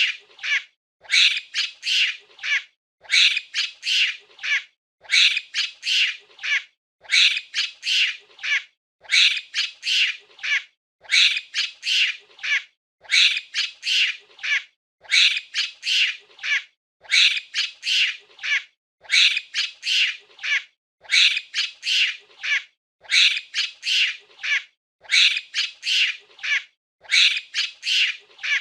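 Monkey calls: a burst of rapid, high-pitched squeaky cries lasting about a second and a half. The same burst repeats about every two seconds, like one short clip looped.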